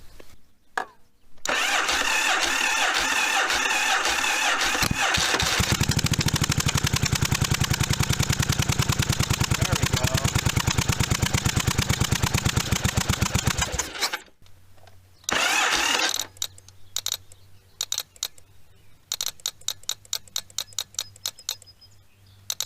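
1982 Yamaha Virago 750 V-twin's starter cranking the engine cold, then the engine catching and running with a fast, even pulse for about eight seconds before stopping abruptly. A short burst of noise follows, then a series of sharp clicks.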